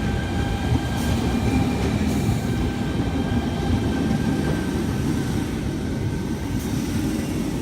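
Tangara electric train running in alongside the platform with a low rumble and a faint steady whine that fades away over the first few seconds as it slows.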